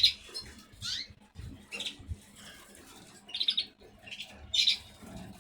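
Caged canaries giving short high chirps, about five separate calls spaced roughly a second apart, one of them a quick trill of repeated notes.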